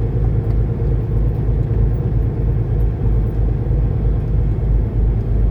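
A semi truck's diesel engine running, heard inside the cab as a steady low rumble.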